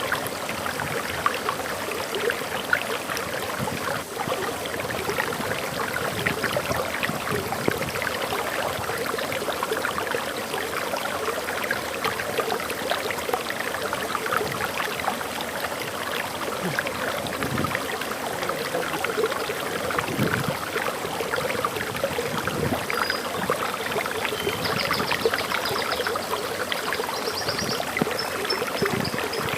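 Waterfall in a forest, water pouring and splashing steadily. Near the end a bird gives a few short, high chirps.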